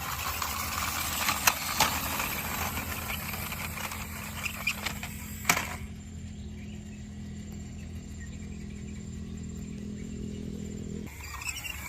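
A small motor humming steadily at a low even pitch, cutting off suddenly near the end. Over it, in the first half, there are chirps, clatter and a few sharp clicks.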